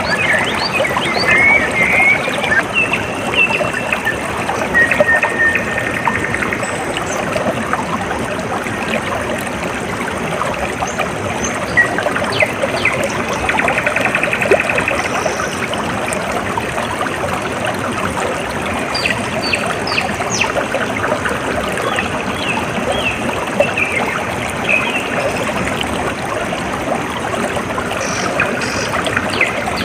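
Water trickling and flowing steadily, like a small stream. Small birds chirp and trill now and then over it: near the start, around the middle and again in the latter part.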